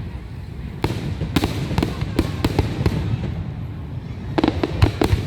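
Fireworks going off: a rapid, irregular series of sharp bangs and crackles over a continuous low rumble, with a denser cluster of bursts near the end.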